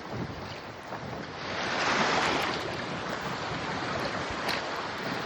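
Strong wind buffeting the microphone over choppy river water, with a louder rush of noise about two seconds in.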